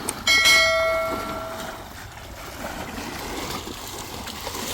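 A single metallic clang, as of a metal vessel knocked or set down, ringing with several clear tones that fade over about a second and a half, over the steady rush of spring water.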